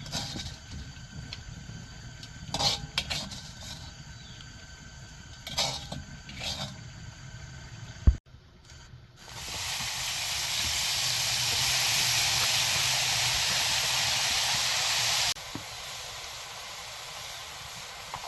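A few scattered knocks, then a sharp knock, then a loud steady hiss that cuts off suddenly after about six seconds and leaves a quieter background noise.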